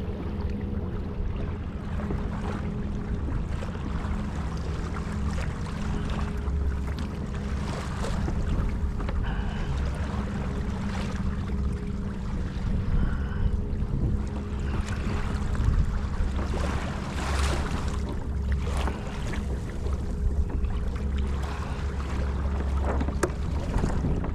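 Wind rumbling on the microphone and water splashing and sloshing around a kayak hull, over a steady hum from a small electric kayak motor.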